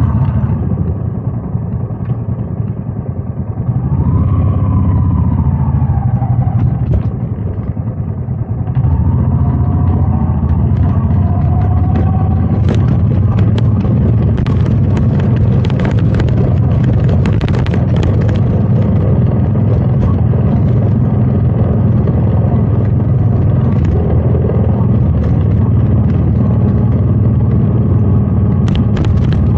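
Royal Enfield Meteor 350's single-cylinder engine running under way, with wind on the microphone. The engine goes softer twice in the first nine seconds, then pulls steadily.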